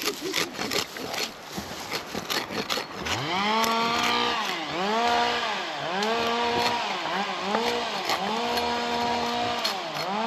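Two-stroke chainsaw revving over and over: from about three seconds in, the engine climbs to full speed, holds and drops back, roughly once a second. Before that, sharp clicks and rustling.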